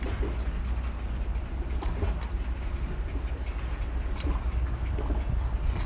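Close-miked chewing and sucking of boiled sea snail meat, with scattered small wet clicks, over a steady low wind rumble on the microphone.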